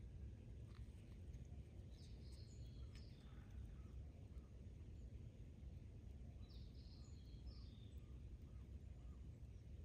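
Faint birdsong outdoors: short high chirps in little groups, about two seconds in and again around seven seconds, over a low steady rumble of outdoor background noise.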